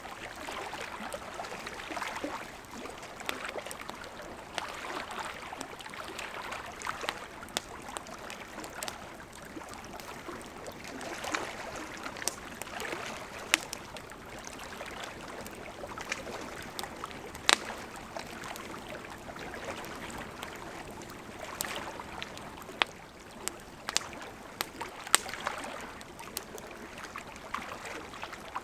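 Campfire crackling, with scattered sharp pops and snaps, over the steady rush of a gently flowing river.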